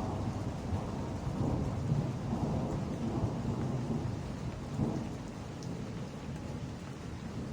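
Rolling thunder rumbling over steady rain, swelling through the first few seconds and then easing off.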